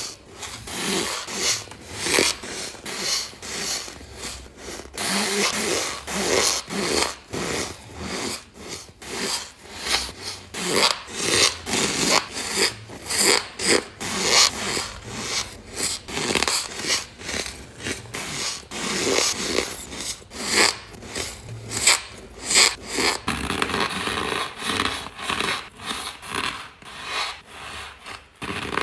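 Ice being bitten and chewed close to the microphone: loud, irregular crunching, a crunch or two a second, slightly softer near the end.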